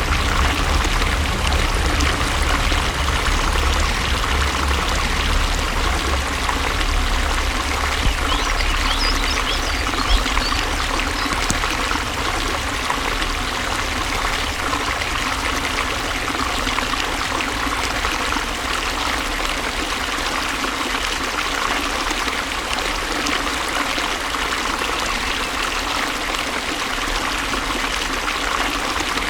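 Flowing water running steadily, with a low rumble that eases off about ten seconds in.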